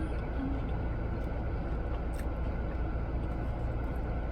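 Steady low rumble of a parked car's running engine, heard from inside the cabin, with a couple of short hummed notes right at the start.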